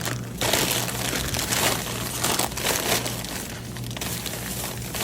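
Packaging crinkling and rustling as it is handled, over a steady low hum.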